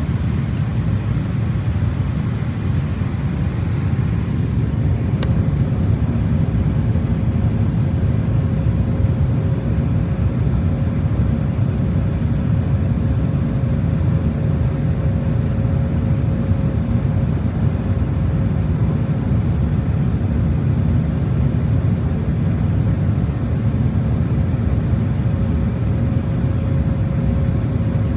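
Steady low rumble of engine and airflow noise inside the cabin of an Airbus A350-1000 airliner. A faint steady hum comes in about five seconds in, with a single light click at the same moment.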